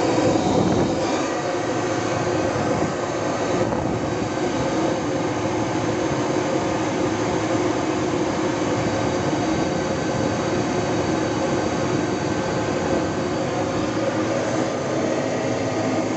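Turbocharged Detroit Diesel 12V-71, a two-stroke V12 diesel, running at a steady speed with no change in pitch or level.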